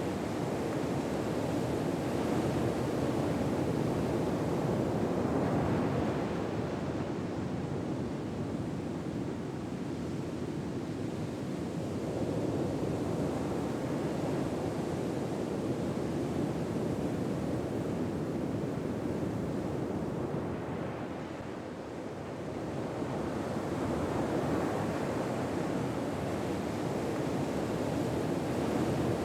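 Ocean waves breaking and washing on a shore: a steady surf hiss that slowly swells and ebbs. It rises and falls a few times, easing off for a while near the end before building again.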